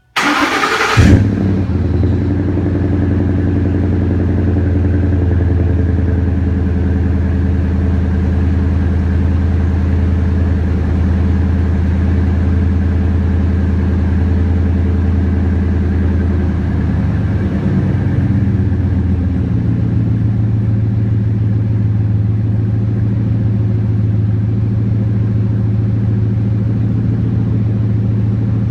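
2010 Ford F-150 V8 cold-starting through a Flowmaster 40 muffler and Raptor cat-back exhaust: a brief starter crank, the engine catching with a loud flare about a second in, then settling into a loud, steady idle. The idle note shifts in pitch about two-thirds of the way through.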